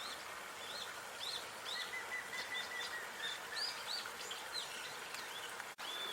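Small birds chirping over a steady background hiss, with many short, quick, arching chirps and a fast run of repeated notes from about two to three seconds in. The sound drops out sharply for a split second near the end.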